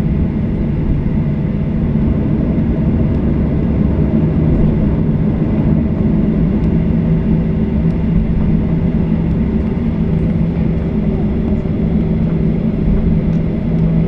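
Inside the cabin of a Boeing 737-800 on the ground after landing: the steady rumble and low hum of its CFM56 jet engines running at idle, unchanging throughout.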